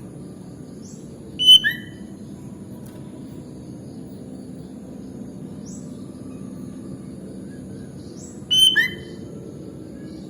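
Sooty-headed bulbul (kutilang) giving two short, loud call phrases about seven seconds apart, with fainter high chirps in between over a steady low background noise.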